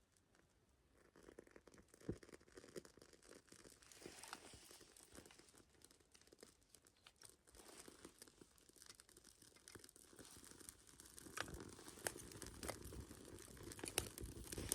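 Small fire of sappy wood kindling catching in a wet fire pit: faint, irregular crackling and snapping that starts about a second in and grows busier and louder toward the end.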